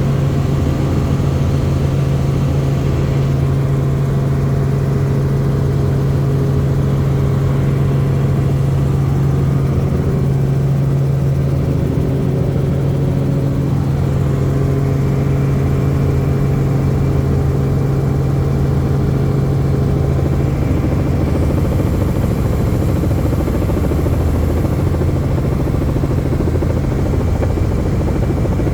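Helicopter in flight: the engine and rotors run as a loud, steady drone with a strong low hum, heard from on board.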